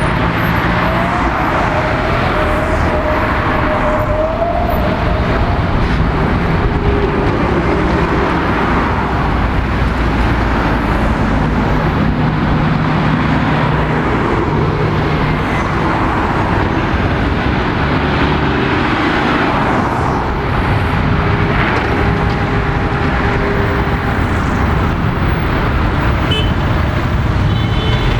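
City street traffic at a busy junction: a continuous mix of passing vehicles' engines and tyres, with a wavering whine for a few seconds near the start.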